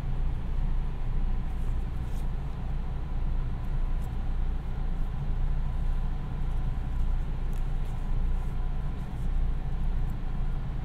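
Inside a JR West 221 series electric train running at steady speed: a steady low rumble from wheels, track and underfloor equipment, with a faint high steady tone over it.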